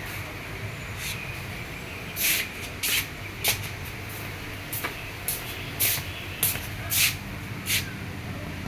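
A series of about ten short, sharp hissing bursts at irregular intervals, over a steady low hum.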